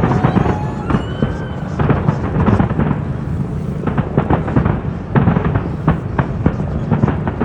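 Fireworks display bursting in rapid, overlapping bangs, with a short whistling tone about a second in.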